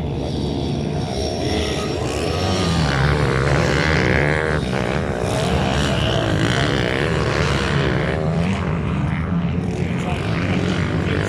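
Several minibike engines running at high revs, their overlapping buzz rising and falling in pitch as the riders open and close the throttle.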